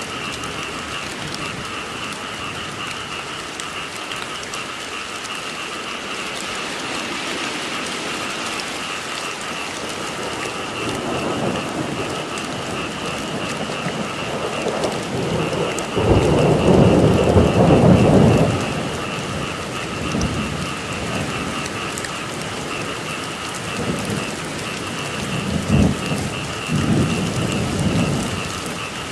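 Steady rain falling, with a roll of thunder building through the middle and loudest about halfway, and a couple of shorter rumbles near the end. Under it a chorus of frogs calls in steady pulses.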